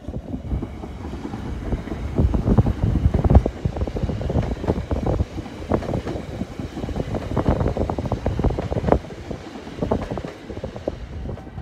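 NS Sprinter Lighttrain (SLT) electric multiple unit running past, a rumble with uneven clattering, loudest a few seconds in, mixed with wind buffeting the microphone.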